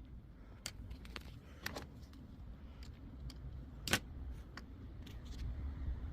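Irregular light clicks and taps of small parts and tools being handled, with one sharper click about four seconds in, over a low steady rumble.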